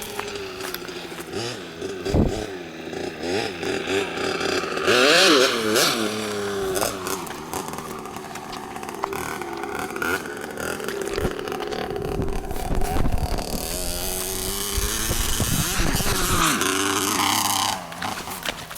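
LEM RX 65cc two-stroke mini motocross bike riding the track, its engine revving up and down as it accelerates and shifts, with the sharpest rises in pitch about five seconds in and again near the end.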